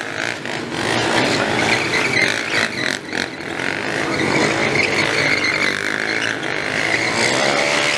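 Stunt motorcycle engine revving hard, with a tyre squealing on pavement in a steady squeal from about halfway.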